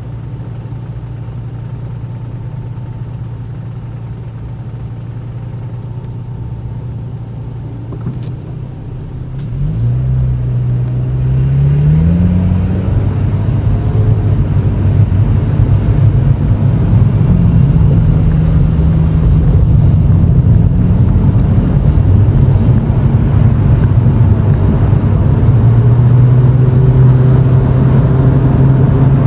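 Toyota Chaser GX100's straight-six engine through a Reinhard aftermarket bullet-type muffler with a centre pipe, heard from inside the cabin. It idles steadily, then about ten seconds in the revs rise as the car pulls away, and it runs on at low speed with the exhaust note rising and falling and louder than at idle.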